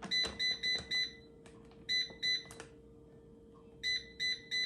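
Power XL Vortex air fryer's control panel beeping as its buttons are pressed to set it up for preheating. Short single-pitched beeps come in quick runs: four, then two, then three.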